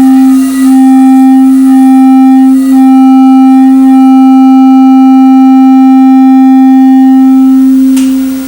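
Crystal singing bowls sounding one loud, steady, pure low tone, with higher overtone tones ringing above it that come and go. A short click about eight seconds in, and the sound eases off near the end.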